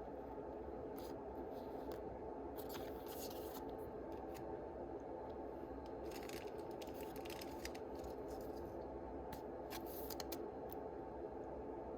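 Foil Yu-Gi-Oh booster packs being opened and their cards handled: scattered short crinkles and snips, bunched in a few spells, over a steady low hum.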